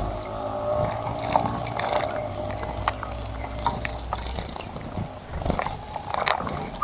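Outdoor bird ambience: a rooster's crow fades out at the start, then scattered short bird chirps and small clicks over a low rumble.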